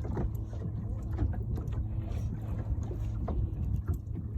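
Water slapping against a small aluminium boat's hull, with scattered short knocks and clicks from handling in the boat, over a steady low hum.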